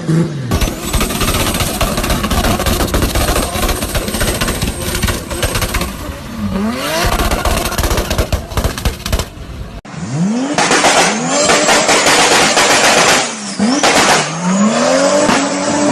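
Turbocharged car engine held at high revs, with rapid popping and crackling from the exhaust typical of an anti-lag system and a high turbo whine over it; the revs drop and pick up again partway through. About ten seconds in, a cut to another turbo car accelerating hard through the gears, its engine pitch climbing again after each shift under a high turbo whistle.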